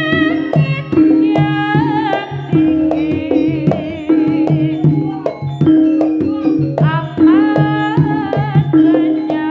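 Javanese jaranan music played by a gamelan ensemble: frequent hand-drum strokes and a low note repeating about once a second, under a high wavering melody.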